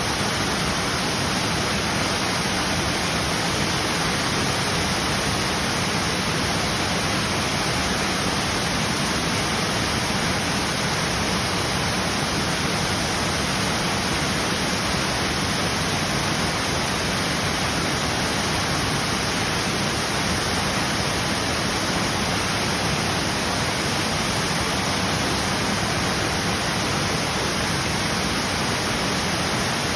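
Waterfall's steady rushing water noise, even and unchanging, spread across low to high pitches.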